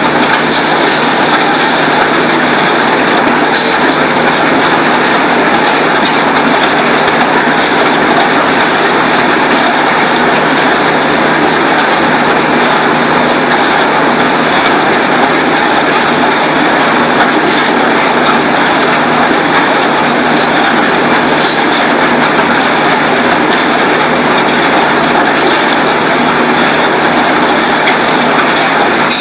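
Concrete batching plant machinery running: a loud, steady mechanical noise with a constant low hum underneath.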